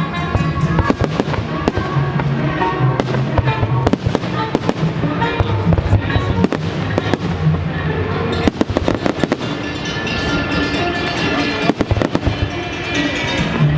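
Fireworks going off in a rapid series of sharp bangs and crackles, with a quick volley of reports about nine seconds in, over music playing throughout.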